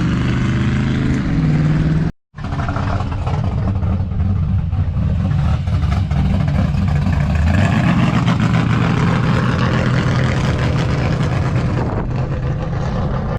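Large truck engine running with a deep, steady note, cut by a brief silent break about two seconds in.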